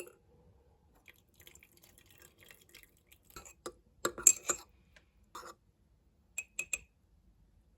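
Small spoon clinking and tapping against glassware: a cluster of sharp clinks about four seconds in, another just after five seconds, then three quick light ringing clinks near the end.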